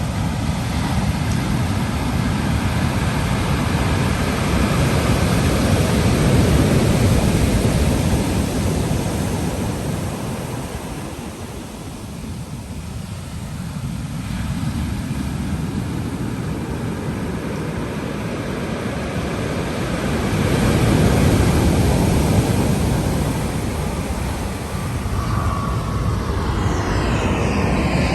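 Pacific Ocean surf: waves break and wash in a steady rushing roar that swells twice and ebbs between. Near the end, a sweeping whoosh rises in over the surf.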